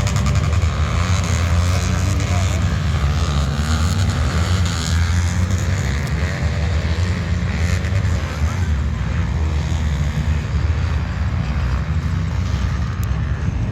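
Motocross dirt bike engines running in a steady, continuous drone.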